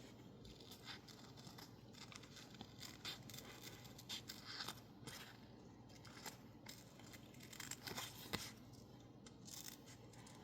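Illustrated masking tape stuck on label paper being cut out: a run of faint, irregular small snips and crinkles of paper.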